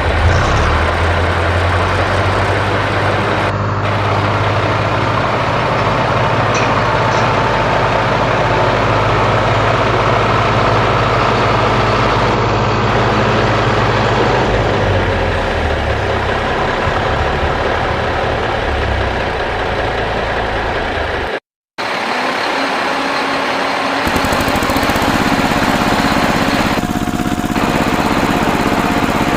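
Engine running steadily with a low hum, cut off briefly for a moment about 21 seconds in, then running on with a somewhat different sound a couple of seconds later.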